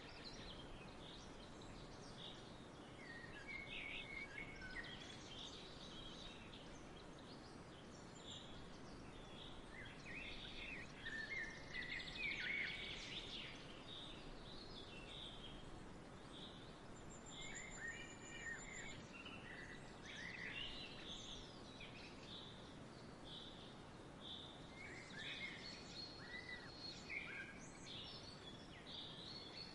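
Many small birds chirping and calling, short chirps scattered throughout, over a faint steady background hiss of outdoor ambience.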